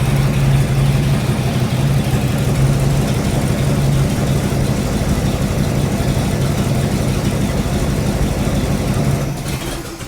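Freshly built rat-rod engine running steadily on its first run, then cutting off near the end.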